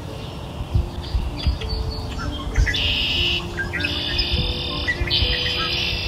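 Birds singing: a few short chirps, then three dense, high trills of about a second each in the second half. Underneath are soft, slow, sustained background music notes.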